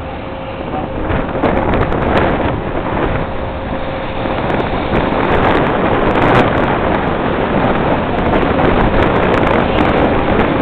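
Wind rushing over the camera microphone aboard a moving river boat: a loud, steady rush that builds over the first couple of seconds, with the boat's own running noise underneath.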